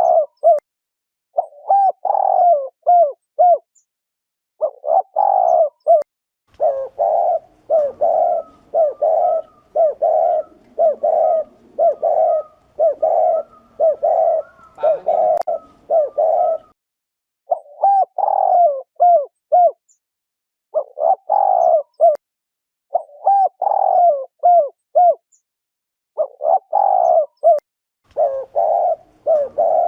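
Spotted dove cooing its 'gù' call, the call used to rouse male doves and lure them to a trap. Short phrases of several notes repeat every second or so, with a tighter, unbroken run of phrases through the middle.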